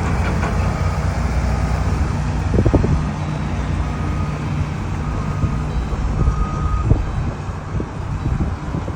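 Steady low rumble of heavy vehicle engines, with a construction vehicle's reversing alarm giving short beeps at one high pitch, roughly a second apart.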